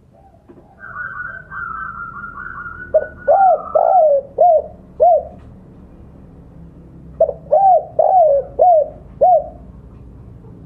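Spotted dove (tekukur) cooing: two phrases of about five hooting coos each, the territorial call used to lure a rival. Before the first phrase comes a rapid run of higher chirping notes.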